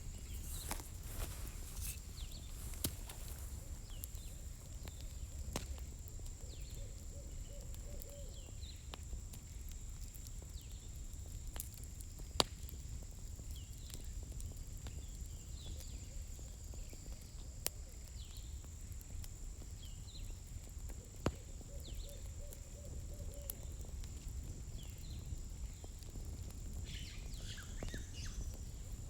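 Wood campfire crackling: scattered sharp snaps and pops, the loudest about halfway through, over a low steady rumble and a faint steady high whine.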